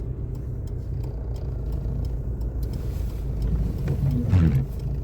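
Car driving, heard from inside the cabin: a steady low rumble of engine and tyres, with a short louder sound about four seconds in.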